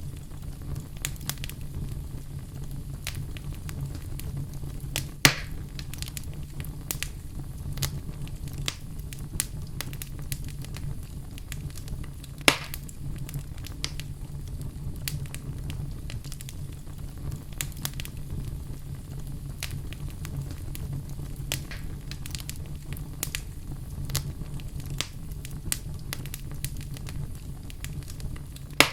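Fire burning in a fireplace: a steady low rumble with frequent small crackles, and two loud pops about five and twelve seconds in.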